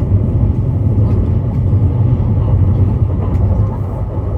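Train running, a steady low rumble that eases slightly near the end.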